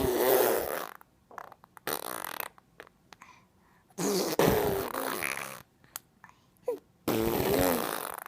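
A child blowing raspberries through the lips, four buzzing bursts of about half a second to a second and a half each, with short gaps between.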